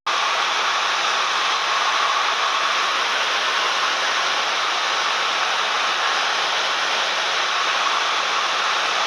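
Steady cabin noise in a Cessna 172M: an even rush with no distinct engine note. The audio drops out for an instant right at the start.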